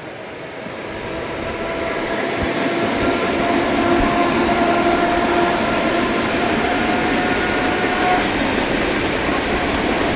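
ED4M electric multiple unit passing, its noise building over the first few seconds and then holding loud and steady, with steady whining tones in the middle of the pass.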